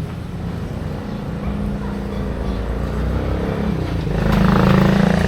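A motor vehicle's engine running, growing louder about four seconds in and peaking near the end, as if passing close by.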